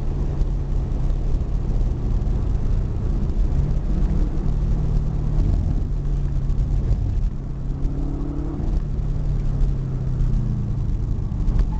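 Car engine running at a steady, moderate pace, heard from inside the cabin with road and wind noise; the engine eases off briefly past the middle, then its note rises near the end as it speeds up.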